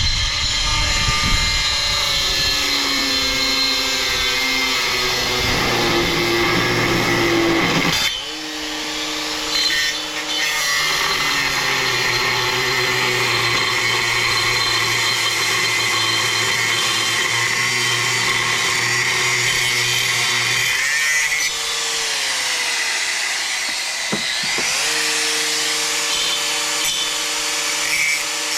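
A power tool running with a steady whine under load, stopping and starting again about 8 seconds in and about 21 seconds in, with a falling then rising pitch around the second restart.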